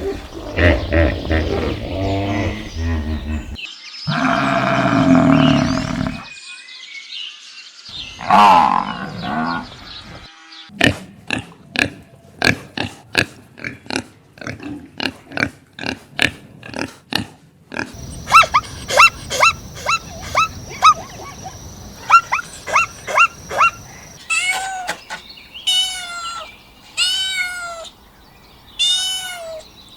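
A string of different animal calls, one after another: pitched calls at first, a loud rough call a few seconds in, a fast run of sharp clicks, a series of short repeated chirps, then arching calls near the end.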